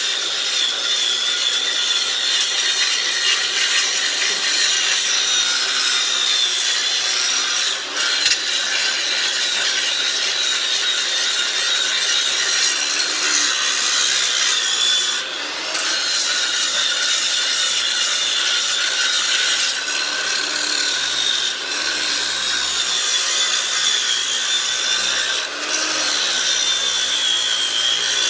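Angle grinder cutting into a concrete foundation wall along a crack, grinding out an old soft patch: a steady high whine over grinding noise, dipping briefly a few times as the wheel eases off the wall.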